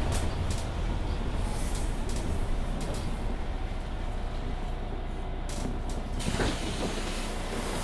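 Mercedes-Benz Citaro C2 Hybrid city bus running with a steady low rumble, a few light clicks, and a brief falling sound about six seconds in.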